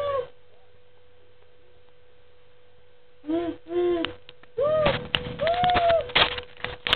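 A young child imitating a train whistle with hooting 'woo' calls: two short ones about three seconds in, then longer calls that rise and fall, mixed with a few sharp clicks, over a faint steady hum.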